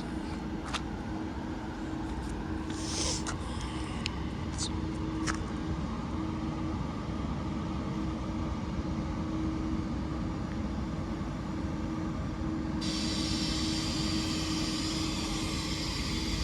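Class 397 electric multiple unit standing at the platform, giving a steady hum with one constant tone over a low rumble, with a few faint clicks in the first few seconds. About thirteen seconds in, a hiss suddenly joins it.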